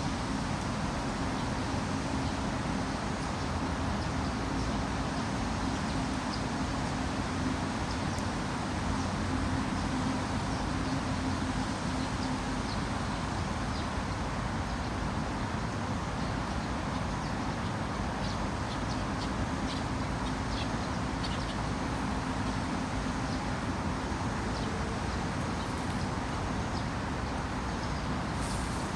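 Steady rushing noise of a heavy downpour and running floodwater in a forest, with faint short high ticks scattered through it.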